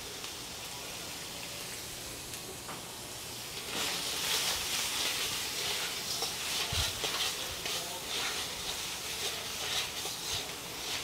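Ground meat frying in a wok over a gas burner. It sizzles low at first, then grows louder about four seconds in as it is stirred, with short stirring strokes through the sizzle.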